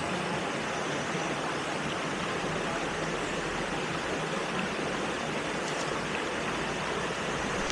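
Waterfall: water rushing steadily, an even hiss with no breaks.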